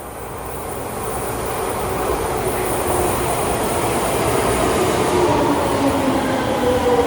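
Electric train approaching, the noise of wheels on rails growing steadily louder, with a whine that falls in pitch near the end.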